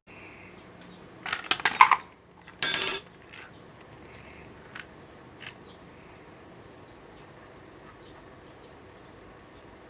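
Steady high-pitched insect chirring. Just over a second in comes a quick clatter of sharp clicks, and near three seconds a short, loud noisy burst.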